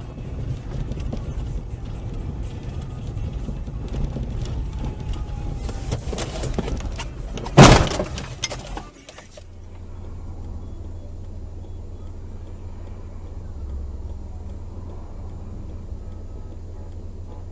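Road and engine noise from a moving vehicle, broken about seven and a half seconds in by one loud crash impact that rings on briefly. About a second later it gives way to a quieter steady low hum.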